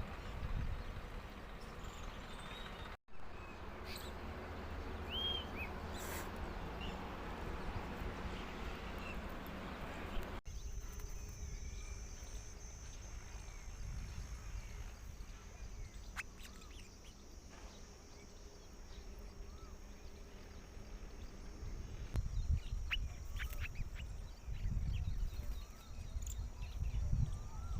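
Outdoor ambience with a few short bird chirps and a low rumble of wind on the microphone; after a cut about ten seconds in, a steady high-pitched hum joins it, and the rumble grows stronger near the end.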